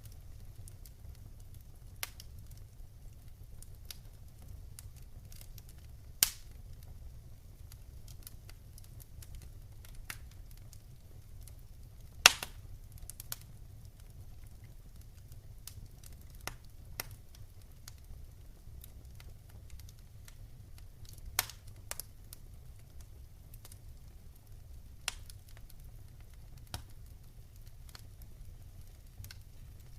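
Wood fire burning in a fireplace: a low, steady rumble of flames with scattered sharp crackles and pops. The loudest snaps come about six and twelve seconds in.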